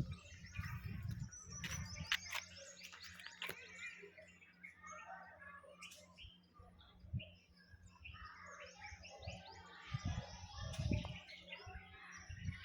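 Many small birds chirping and twittering together, a dense run of short, quick calls. A low rumble swells up briefly about ten seconds in.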